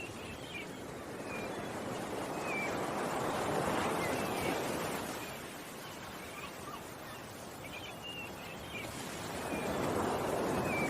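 Ocean waves washing in, the surf swelling twice, with birds chirping briefly and repeatedly over it.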